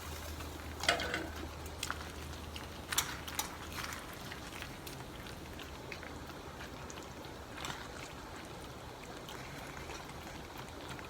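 Macaroni in a creamy mushroom sauce simmering and bubbling in a pan on raised heat, with a few sharp clinks of a utensil against the pan as it is stirred.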